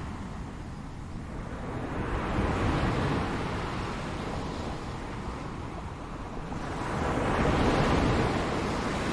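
Ocean surf: waves swell and wash in, one about two seconds in and a louder one near the end, over a steady low rumble.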